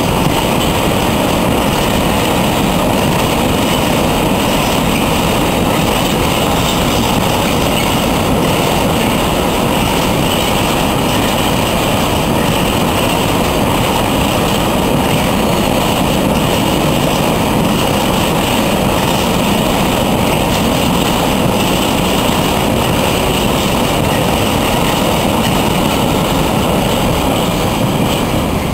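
A long freight train of red hooded freight wagons rolling past on the rails: a loud, steady rumble of wheels and wagons that begins to fall away near the end as the last wagon passes.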